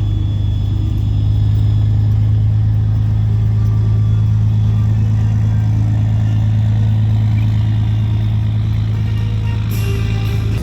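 Heavy military vehicle engine running steadily, a loud low hum that holds at one pitch.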